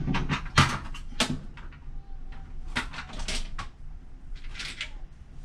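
Hand tools being handled: a few sharp clicks and knocks in the first second or so, then softer rattling and scraping, as a socket is tried for size on the vent hose clamp and found too big.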